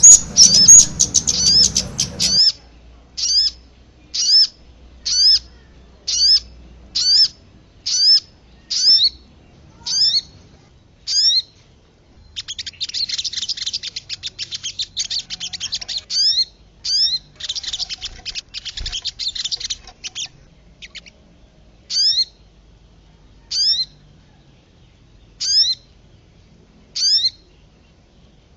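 Bird-lure recording combining sogon and kemade calls: short, high, hooked whistled notes repeated about once a second, with bursts of rapid, harsh chattering at the start and again from about 12 to 20 seconds in.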